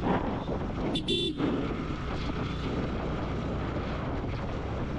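Motorcycle on the move: steady engine and road rumble mixed with wind buffeting on the microphone. A brief high-pitched tone cuts in about a second in.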